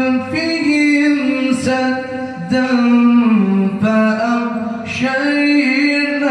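A single voice reciting the Quran in a melodic tajweed style, unaccompanied, with long held notes and ornamented turns in pitch.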